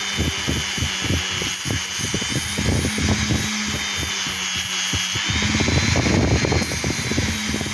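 Small electric power tool running steadily, apparently a polisher or grinder working an ironstone rock, with irregular scraping as the stone is pressed against it. The motor's whine dips slightly in pitch midway, then recovers.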